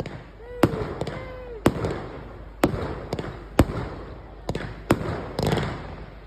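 Fireworks going off: a string of sharp bangs about once a second, each trailing off briefly, with a quick cluster of bangs near the end.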